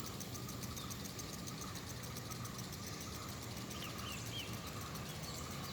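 Outdoor ambience: insects chirping in a fast, even high-pitched pulse over a low steady hum, with two or three faint bird chirps about four seconds in.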